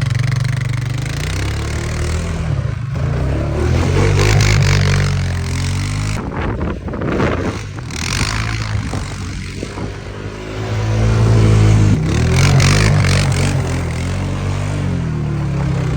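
A motor vehicle's engine running, its pitch shifting up and down as it drives.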